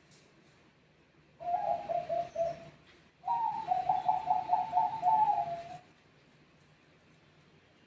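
Zebra dove (Bangkok perkutut) cooing: two phrases of quick, rippling coo notes, the second one higher and longer, then quiet background.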